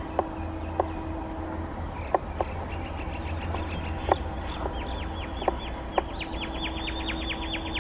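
A bird calling a run of quick descending chirps that speed up and grow louder from about two and a half seconds in. Underneath is a low steady rumble, with scattered sharp clicks.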